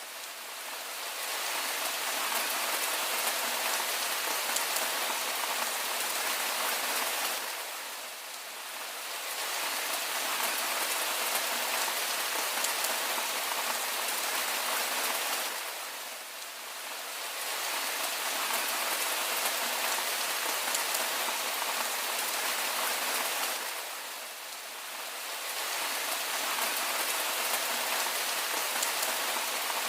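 Steady rain falling, an even hiss with no low rumble, dipping briefly in loudness about every eight seconds.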